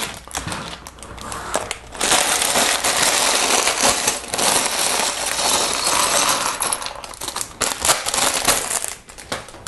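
Plastic bag of Lego pieces being handled and torn open, the plastic crinkling and crackling steadily with small plastic bricks clicking and rattling inside.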